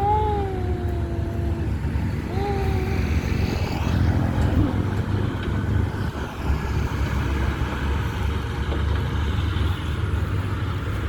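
Heavy diesel construction machinery running steadily with a low rumble, with a short wavering pitched tone in the first couple of seconds.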